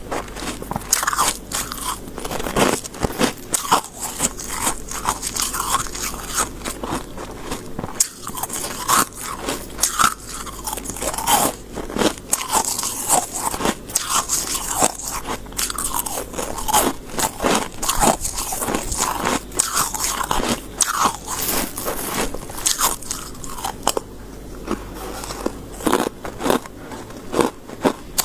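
Close-miked crunching of soft freezer frost being bitten and chewed, a dense run of irregular crisp crunches.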